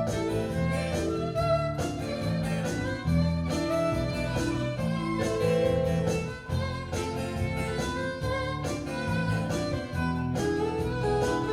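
A live acoustic band playing an instrumental break in a song, with a melody line over a steady rhythmic accompaniment and no singing.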